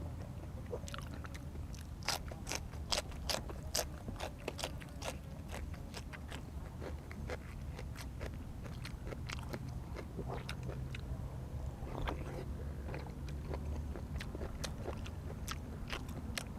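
Close-up chewing and crunching of crunchy food, a rapid run of crisp crackling bites strongest about two to four seconds in, then slower chewing, over a steady low hum.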